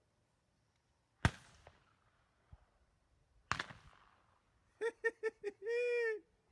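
Two shotgun shots about two seconds apart, fired at passing doves, each a sharp crack with a short ringing tail. Near the end come four short high calls and then one longer one.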